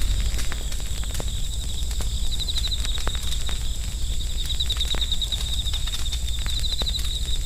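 Campfire crackling, with irregular sharp pops and snaps over a low rumble, while night insects trill in short rapid bursts about every two seconds.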